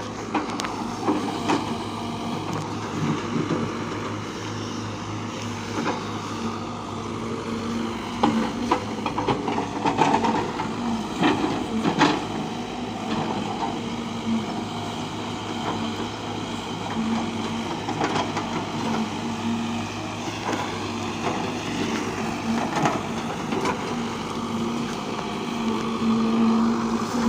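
A heavy machine's engine running steadily, with scattered metallic clanks and knocks.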